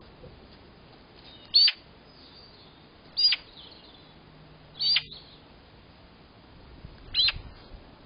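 A bird giving four short, loud calls, each sweeping downward in pitch, one every one and a half to two seconds.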